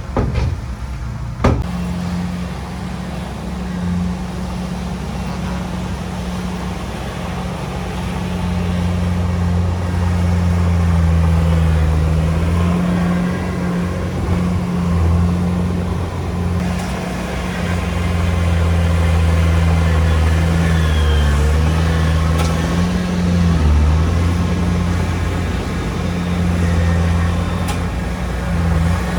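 Heavy diesel engine of an earthmoving machine running steadily, growing louder in stretches as it works under load, with a sharp knock about a second and a half in.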